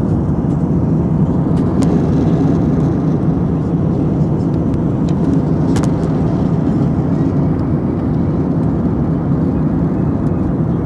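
Steady low drone of a passenger jet's engines and rushing air, heard inside the cabin in flight.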